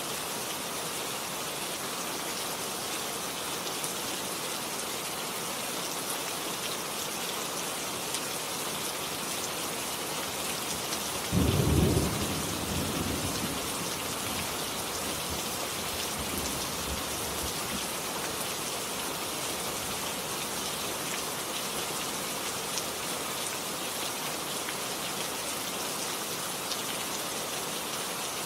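Steady rain falling and pattering, with one sudden low roll of thunder about a third of the way in that fades over a couple of seconds.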